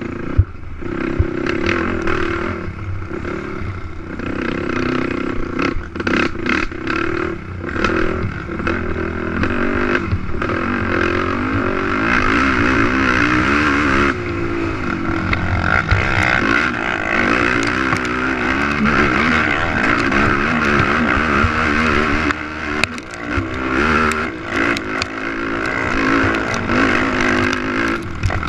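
A racing ATV's engine revving up and down as it is ridden hard, its pitch rising and falling continually. Scattered knocks and rattles come through on top.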